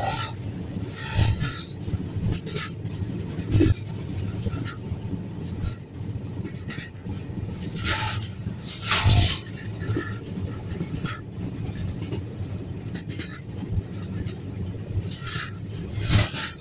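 Passenger train running on the rails: a steady low rumble of the wheels, broken by irregular clanks and rattles, the loudest pair about eight to nine seconds in.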